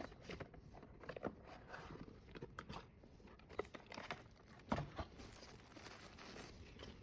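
Faint handling noises: scattered clicks, taps and light rustles of a small earphone box and its packaging being opened, with one louder knock about two-thirds of the way through.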